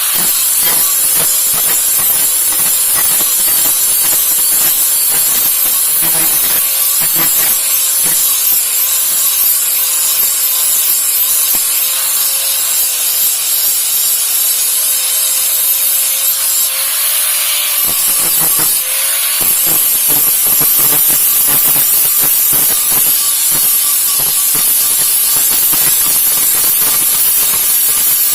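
Power tool grinding the steel of a machete blade: a continuous loud scraping hiss over a steady motor tone, which dips and breaks briefly about two thirds of the way through.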